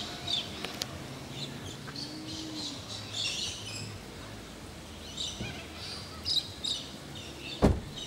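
Scattered short bird chirps and calls, with a dull thump near the end.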